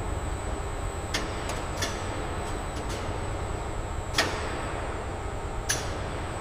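Factory machinery ambience: a steady low mechanical rumble with a thin, high, steady whine, broken by a few short sharp clicks and swishes, the clearest about four seconds in.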